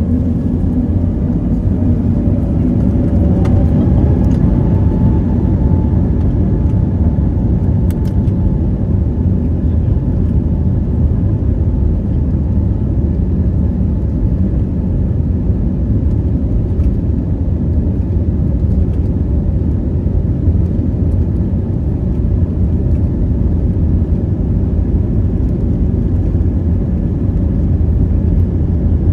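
Steady low rumble and hiss of cabin noise inside an Airbus A321neo, with a faint rising whine a few seconds in.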